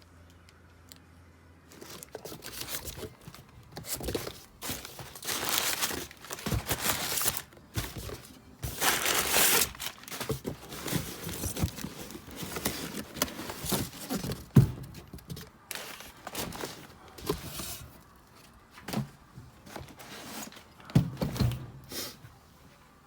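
Wrapping crinkling and rustling in irregular bursts as it is handled, with a few sharp knocks, one loud about halfway through and another near the end.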